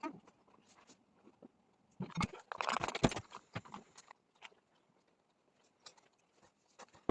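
Handling noises: scattered light clicks and knocks, with a rustling, crunching scrape from about two seconds in that lasts about two seconds.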